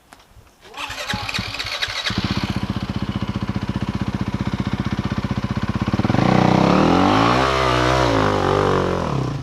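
Trail motorcycle engine starting about a second in with a few ragged pops, then running steadily. From about six seconds it gets louder and the engine note rises and falls as the throttle is worked.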